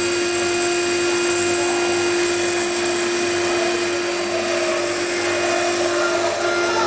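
NICECNC BD1325E CNC router's spindle running at a steady pitch with a high whine over a hiss, milling aluminium.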